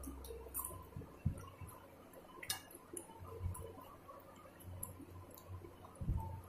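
Faint eating sounds of someone eating rice and chicken curry by hand: scattered small mouth clicks and lip smacks while chewing, with a couple of soft low thumps.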